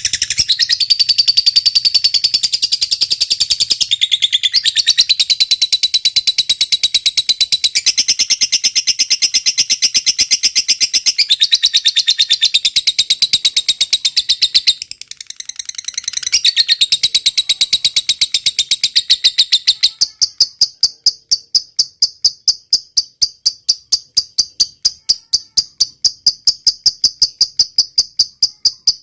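Dense, high-pitched bird chirping and trilling, dipping briefly near the middle. About two-thirds of the way in it gives way to a cricket chirping in an even rhythm, about four chirps a second.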